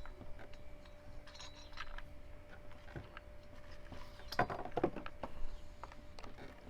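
Light clicks and clinks of small hand tools and screws on a Poulan Pro chainsaw being taken apart, with a cluster of louder clicks about four and a half seconds in, over a faint steady hum.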